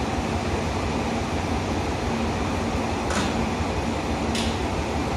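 Diesel railcar idling steadily at a platform, a low engine hum with a steady tone. Two short hisses of air come about three seconds and four and a half seconds in.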